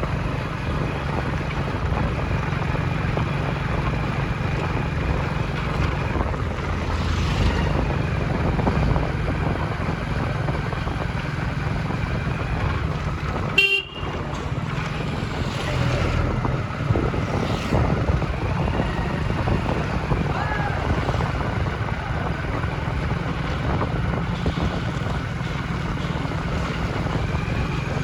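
Steady engine and road noise of a vehicle driving through city traffic, with other vehicles' horns sounding long, steady notes at times. A sharp click and a brief dropout come about halfway through.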